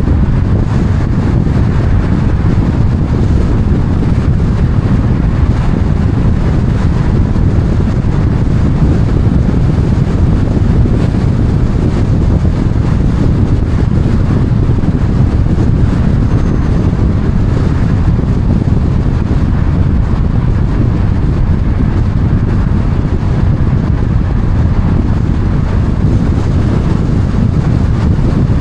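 Loud, steady low rumble of wind noise on the microphone and vehicle running noise, with no distinct events.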